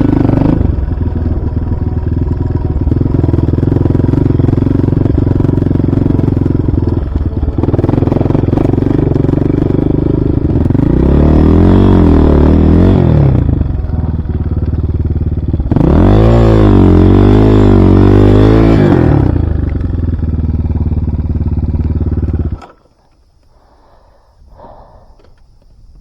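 Enduro motorcycle engine running, revved up and back down twice, then stopping suddenly near the end.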